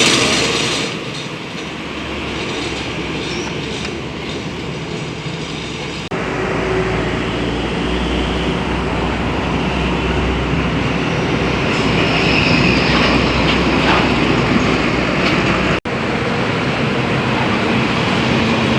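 Heavy trucks driving past: a loud, steady rumble of engines and tyres that changes abruptly about six seconds in and cuts out for an instant near the end.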